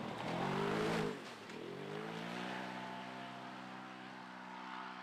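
Engine of an off-road safari racing car revving hard: its pitch climbs, drops sharply about a second in, then holds a steady note that slowly fades.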